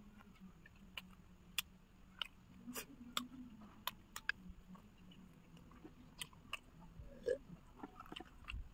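People chewing and biting into crispy fried chicken: irregular sharp crunches and wet mouth clicks.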